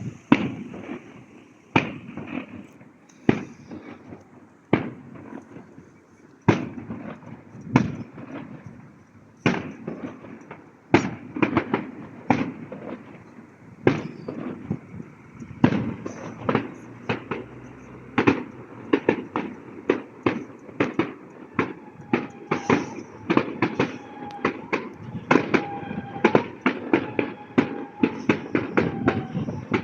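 Fireworks display: a string of sharp bangs with echoing tails, one every second or two at first, then coming faster and overlapping from about halfway.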